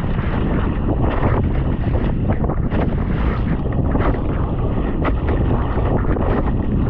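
Strong wind buffeting the microphone over water rushing and splashing along the hull of a Hobie Tandem Island sailing kayak under sail. It is a steady, loud noise with many short splashes.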